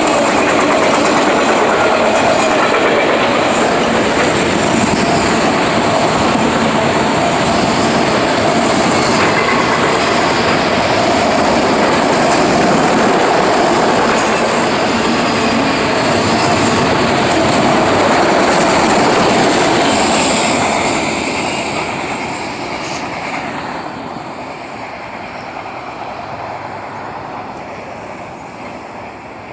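Freight train of autorack cars rolling past close by: a steady loud rumble of steel wheels on rail with a thin high squeal over it. After about twenty seconds the sound fades steadily as the end of the train passes and it draws away.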